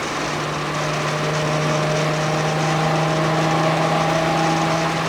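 Car engine holding a steady speed, a constant drone with road noise underneath.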